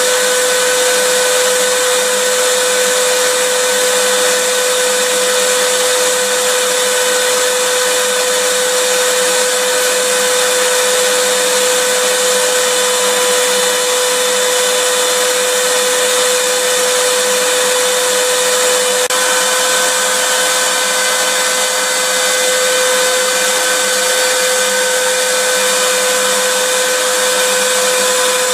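Vacuum cleaner running steadily: a constant motor whine over an even rush of air, with a slight shift in its tone about two-thirds of the way through.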